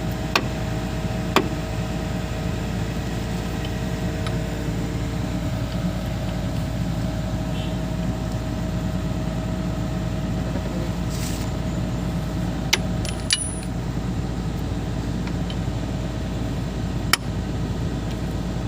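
Hitachi 210 excavator's diesel engine running steadily at idle, with a few sharp clicks or knocks scattered through it.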